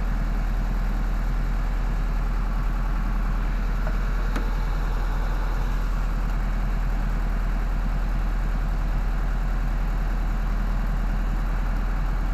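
An engine idling steadily with a low drone, with one faint click about four seconds in.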